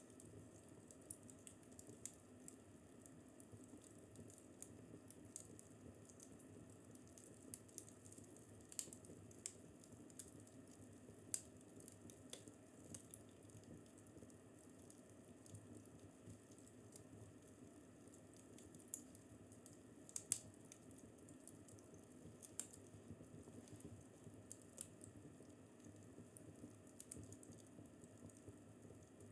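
Fireplace crackling faintly: scattered sharp pops and snaps at irregular intervals over a steady low hiss of the burning fire, with the loudest snap about twenty seconds in.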